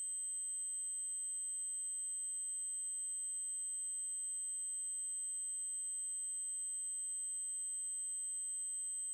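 Steady synthesized 8192 Hz triangle-wave tone, a single very high-pitched electronic whine held constant.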